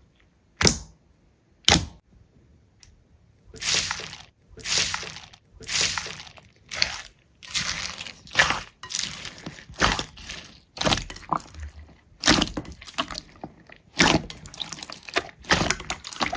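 Slime being squeezed and kneaded by hand, giving wet crackling and squishing in repeated bursts about once a second, after two sharp snaps near the start.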